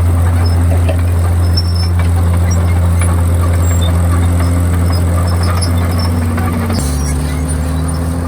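Komatsu D51PX crawler bulldozer's diesel engine running steadily under a low hum, its note changing about seven seconds in.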